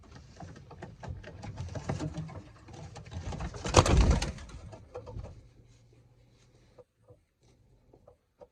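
Racing pigeons cooing in a loft, with a stretch of close rustling and handling noise that peaks in a loud burst about four seconds in. After that it quiets down to faint sounds.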